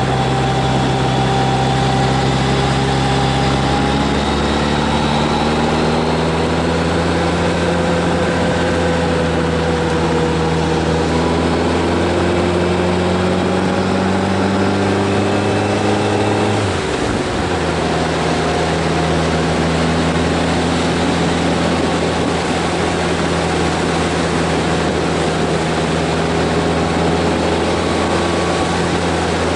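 Motorcycle engine under way. Its pitch climbs steadily for about twelve seconds as it accelerates, then cuts briefly and comes back lower about seventeen seconds in, as at a gear change, and runs steadily after that.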